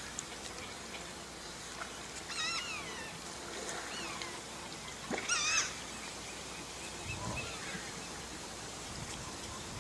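Otter calls: a wavering, pitched cry about two seconds in and a louder one about five seconds in, with a fainter falling call between them, over a steady faint hiss.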